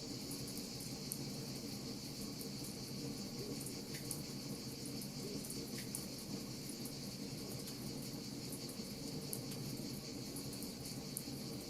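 Wood fire crackling in irregular sharp snaps, over a steady high chirring of crickets.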